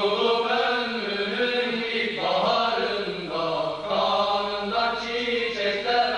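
Vocal chant in the soundtrack: long, drawn-out sung notes that bend slowly in pitch over a steady hummed drone.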